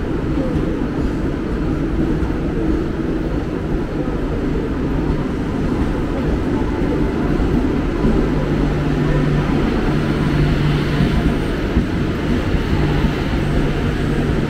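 Mumbai air-conditioned electric local train running slowly along the platform as it arrives: a steady rumble of wheels on rails. A low steady hum comes in about halfway and comes and goes.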